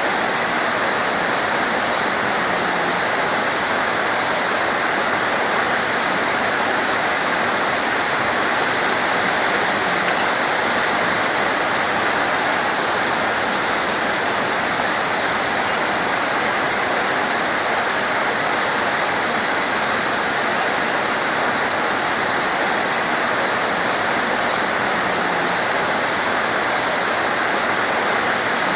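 Heavy torrential rain pouring steadily in a dense, even hiss, with one brief click about three-quarters of the way through.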